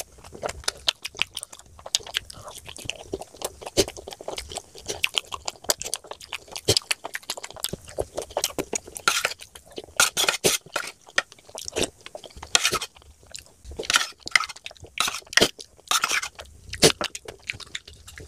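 Close-miked eating: wet chewing and lip smacking on a mouthful of chickpea chaat eaten by hand, with some crunching. The smacks grow louder and more frequent in the second half.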